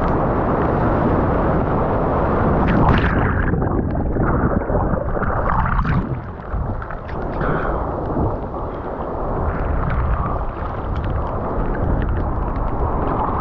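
Strong wind buffeting a GoPro's microphone as a loud, steady rumble, with short splashes of water a few times between about three and seven seconds in.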